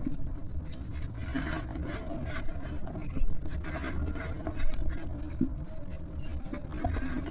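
Brittle material crumbling: irregular crackling and scraping, with a couple of louder crunches about three and four and a half seconds in.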